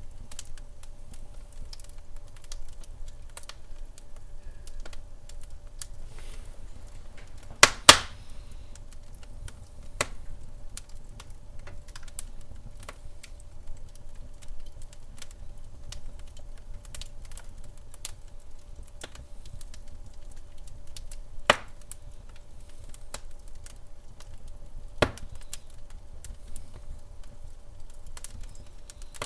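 Wood fire burning in a fireplace: constant light crackling with sharp pops, the loudest a quick double pop about a quarter of the way in and two more single pops later, over a low steady rumble.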